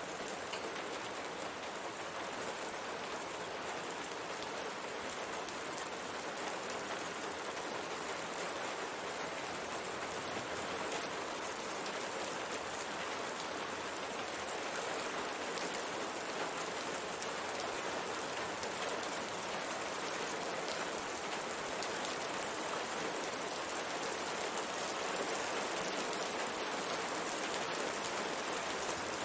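Steady rain falling, many small drops pattering on window glass.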